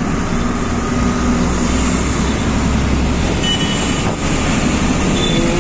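Truck engine running with steady road and traffic noise. A couple of brief faint high tones come in about three and a half and five seconds in.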